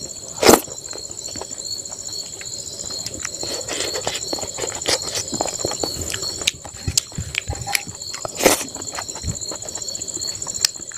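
Close-up eating sounds of rice and vegetable eaten by hand: chewing and mouth smacks, with fingers working rice on a steel plate as many small clicks. Two louder clicks, about half a second in and about eight and a half seconds in, over a steady high-pitched whine.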